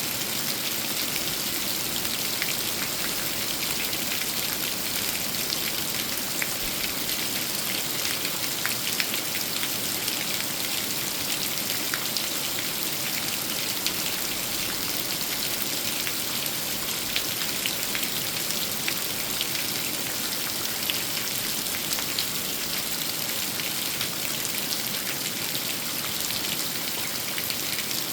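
Steady rain falling on a 500-year-old tree: an even hiss with many separate drops ticking through it.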